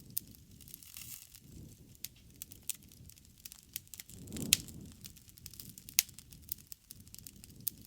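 Wood fire burning: scattered sharp crackles and pops over a low rumbling flutter of flames, which swells briefly about halfway through with a loud pop.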